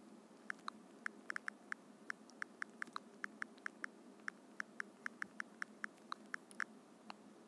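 Fast, uneven key clicks from a phone's on-screen keyboard while typing, several short sharp ticks a second with a few brief pauses.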